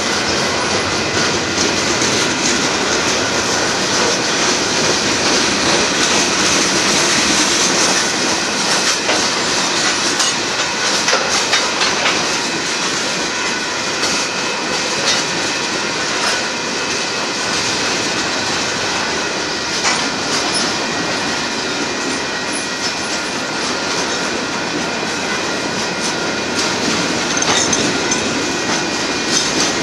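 Mixed freight cars of a Union Pacific manifest train rolling past at track side: a steady, loud rumble and rattle of steel wheels on rail, with steady high ringing tones and scattered clicks as wheels cross rail joints.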